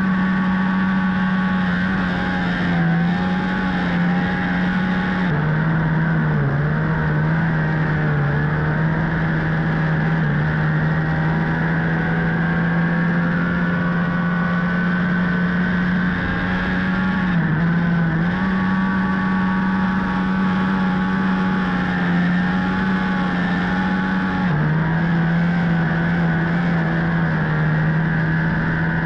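Flat track race motorcycle's engine heard onboard at high speed on a dirt mile, running flat out in a steady drone that steps slightly down and up in pitch a few times over an even rushing noise.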